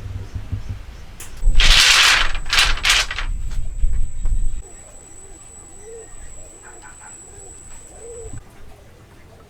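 A loud, rough rasping noise in about three strokes over two seconds, followed by a dove cooing several times in soft rising-and-falling notes.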